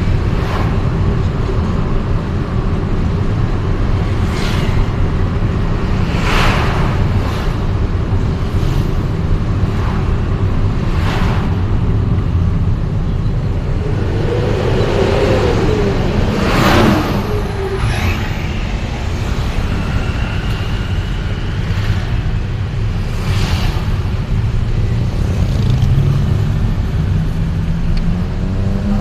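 Steady rumble of road traffic heard from a moving vehicle in city streets, with other vehicles whooshing past every few seconds and a brief engine rev near the middle.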